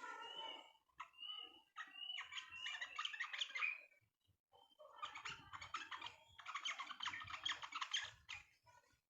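Songbird chirping in rapid chattering bursts of short high notes, pausing briefly about four seconds in before a longer run of chatter.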